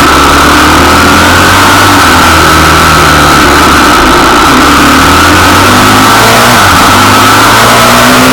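Pitbike's small single-cylinder engine running continuously, its pitch rising and falling gently with the throttle. It is very loud and overdriven on the recording.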